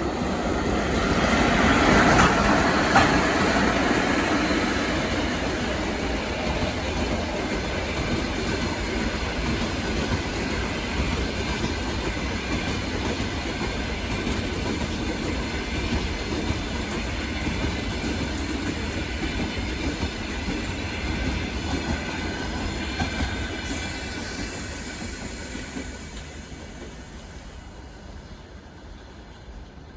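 Passenger train hauled by a ChS7 electric locomotive passing at speed. It is loudest as the locomotive goes by about two seconds in, then the carriages' wheels run steadily on the rails, and the sound fades away over the last few seconds.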